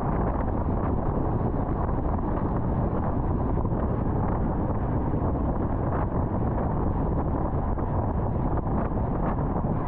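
Steady rushing road and wind noise from a car travelling at highway speed, with a few faint brief ticks.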